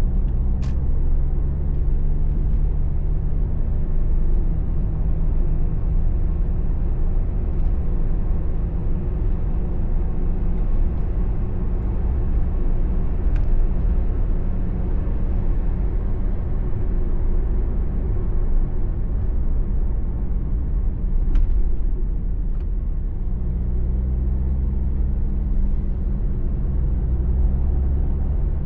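Car engine and tyre road noise heard from inside the cabin: a steady low rumble with an engine hum that comes through more clearly near the end. A few faint sharp clicks.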